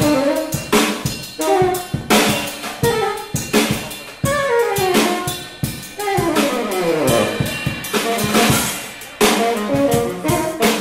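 Jazz band playing: a busy drum kit with snare, bass drum and cymbal hits under melodic lines, some phrases sliding downward in pitch in the middle.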